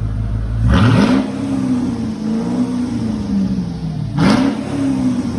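Mercedes-Benz SL500 R230 V8 with its mufflers deleted, idling and revved twice. Each throttle blip rises quickly and falls back to idle, about three and a half seconds apart.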